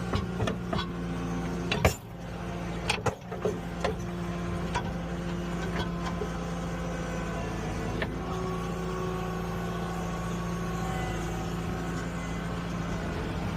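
Skid steer engine running steadily while working a dirt pile, with several sharp knocks in the first four seconds.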